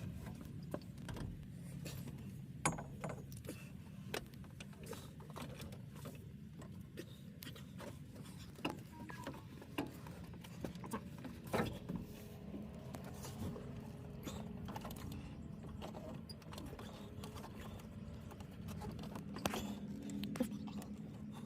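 Scattered metallic clicks, taps and clinks of tools and parts being handled during work on a truck's air compressor, over a steady low hum.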